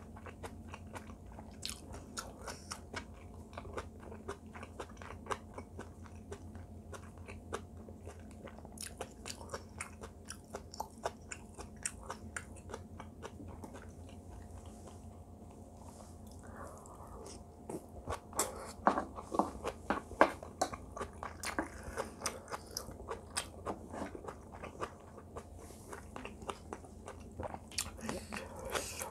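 A person chewing mouthfuls of braised kimchi and rice, a long run of small mouth clicks, busier and louder from about two-thirds of the way through. A faint steady low hum lies underneath.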